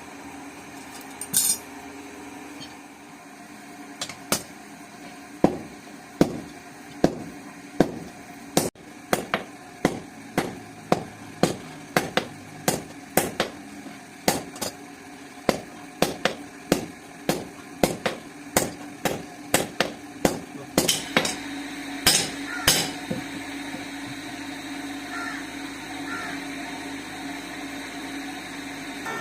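Hammer blows on steel at the anvil while forging a cleaver blade: a long run of sharp, ringing strikes at about one and a half per second, with a steady hum underneath that stands out after they stop.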